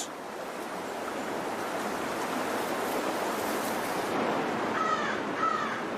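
Steady rush of stream water. Two short bird chirps come near the end.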